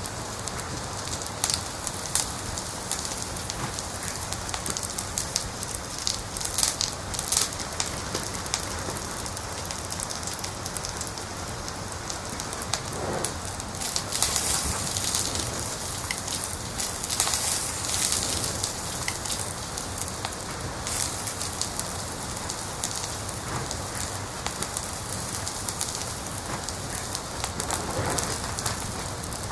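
Wood fire crackling in a fireplace: a steady hiss with frequent sharp pops and snaps, coming in denser clusters now and then.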